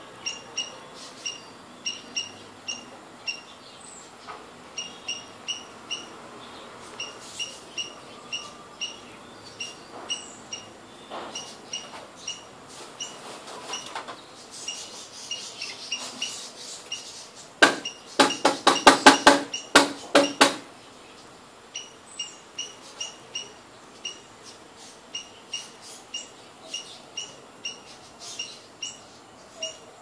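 Small bird chirping: short, high chirps repeating about twice a second. About halfway through comes a louder, harsher run of about ten rapid pulses lasting some three seconds.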